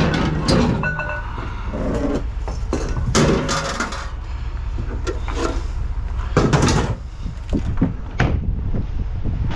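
Irregular clattering and knocking of scrap items being handled and moved, loudest in a few short flurries, over a steady low rumble.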